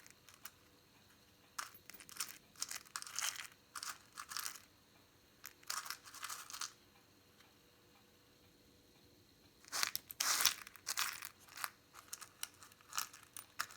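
Hands rummaging through small parts: intermittent rustling and crinkling with small clicks, in clusters separated by quiet pauses, loudest about ten seconds in.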